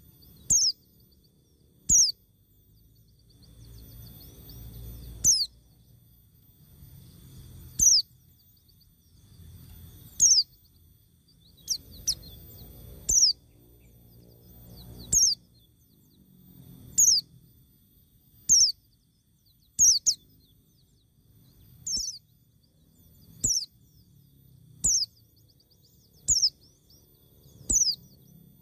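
A bird calling over and over: short, high notes that sweep downward in pitch, about one every one and a half to two seconds.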